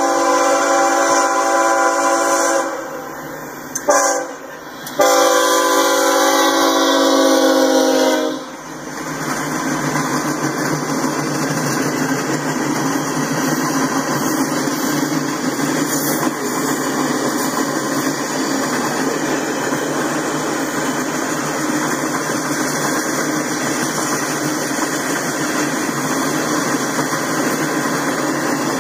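Freight locomotive horn, several tones at once: a long blast, a short blast about four seconds in, and another long blast that cuts off about eight seconds in. After it, the steady rolling noise of freight cars passing on the rails.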